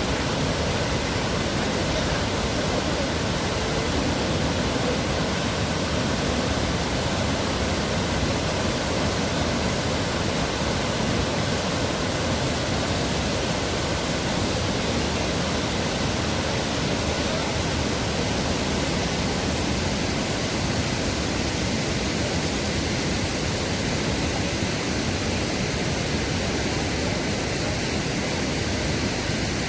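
Waterfall: a steady, even rush of falling water with no breaks or distinct splashes.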